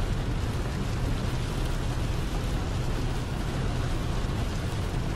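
Rain drumming on the windshield and cab of a moving semi truck, heard from inside the cab over a steady low rumble of engine and road.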